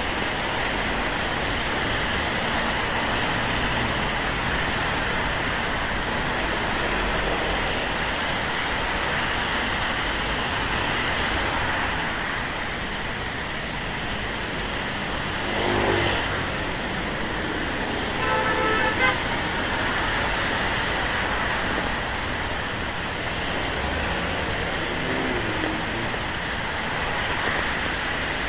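Steady rain hiss over city traffic on wet roads. One vehicle passes close around the middle, and a car horn gives a short honk a few seconds later.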